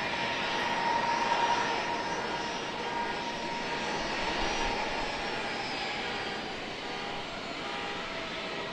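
Jet engines of a Southwest Airlines Boeing 737 at takeoff power, a steady rush with a high whine that slowly falls in pitch, loudest about a second in and then gradually fading as the jet moves away.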